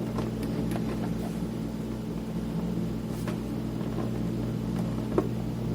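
Steady low hum, with a few light clicks and taps of a screwdriver and small screws being worked out of a cassette recorder's case.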